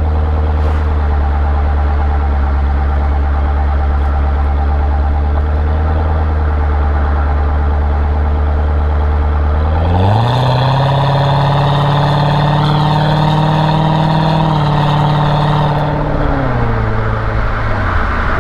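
Chevrolet Corvette C6 V8 running low and steady, then about ten seconds in the revs climb quickly and hold for several seconds with a small step down, before dropping back near the end.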